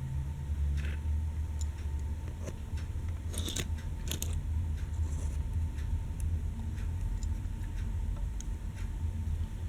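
Scattered small clicks and light rattles of a die-cast toy train being handled, a few a little louder about three and a half to four seconds in, over a low steady hum.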